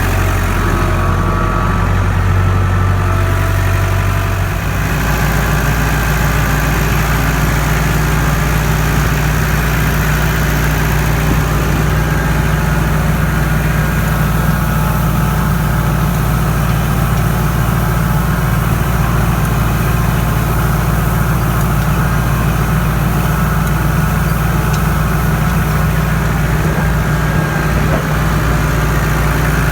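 Tractor engine running steadily, its note dropping to a lower, steady pitch about four and a half seconds in.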